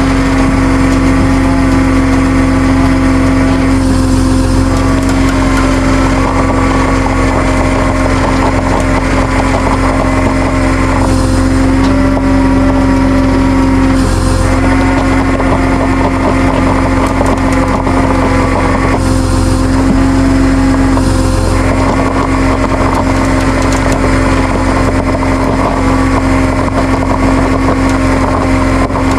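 Tow truck engine running steadily under load while it powers the winch, with a constant hum.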